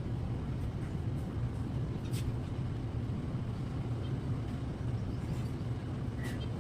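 Steady low rumble of outdoor background noise, with a few brief, faint high chirps.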